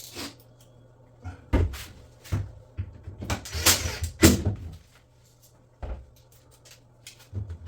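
Irregular knocks, clicks and scrapes of hard parts being handled and fitted together, densest around the middle, over a faint steady low hum.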